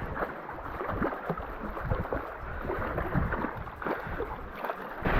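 Shallow water sloshing and splashing in quick irregular splashes, with wind buffeting the microphone.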